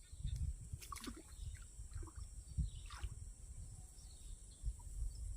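Paddy-field ambience: a steady high-pitched insect buzz, with irregular low thuds and scattered short clicks and chirps over it.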